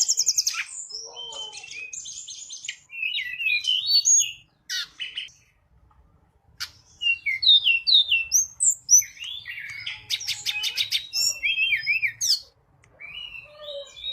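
Tledekan gunung singing: a lure-call song of quick rising and falling whistled notes and rapid trills in busy phrases, with two short pauses, used to call wild tledekan.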